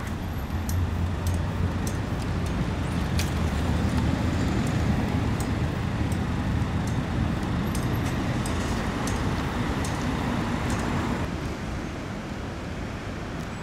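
Road vehicle noise: a steady low rumble with scattered short rattles and clicks. The noise drops a little near the end.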